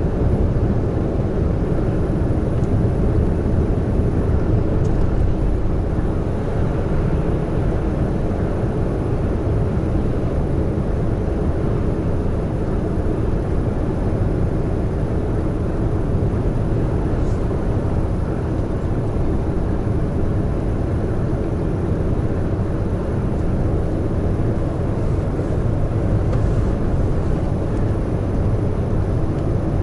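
Large truck running steadily at cruising speed, its engine drone and road noise holding level without gear changes or pauses.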